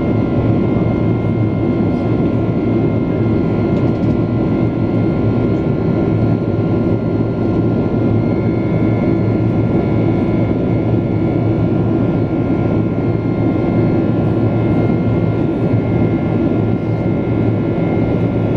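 Steady jet airliner cabin noise inside a Boeing 767-400ER in flight: a constant loud rush and drone with a few faint steady whining tones over it.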